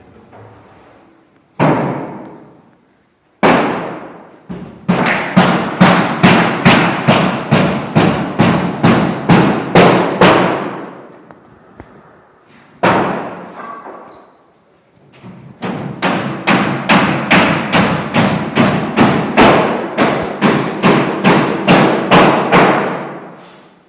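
Repeated hammer blows on wood: two single knocks, then a steady run of strikes at about two to three a second, a lone blow, and a second long run.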